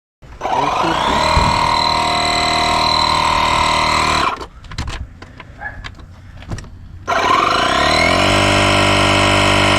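Portable air compressor's motor starting with a rising whine and running steadily for about four seconds, stopping, then starting again near seven seconds in and running on, as it pumps up a flat dolly tire.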